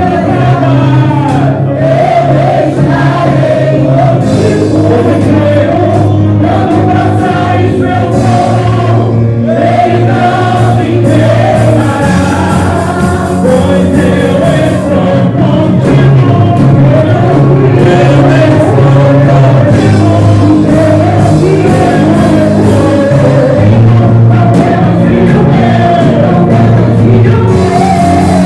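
Gospel worship music: a praise group singing together over steady instrumental backing with sustained low notes.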